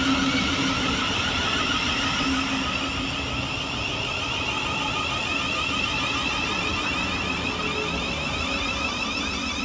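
Thameslink Class 700 electric multiple unit in motion, its traction equipment giving a steady warbling electric whine over the rumble of the train.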